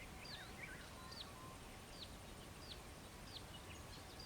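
Faint birdsong: a short, high, down-slurred note repeated about every two-thirds of a second, with a few lower notes near the start.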